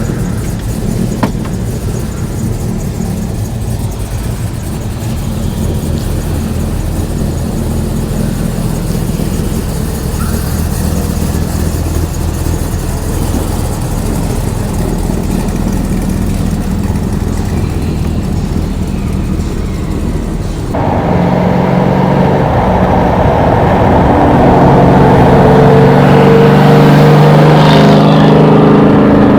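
A truck engine runs steadily with a low rumble. About two-thirds of the way through, the sound jumps suddenly louder, and the engine notes sit higher and hold as it pulls under load.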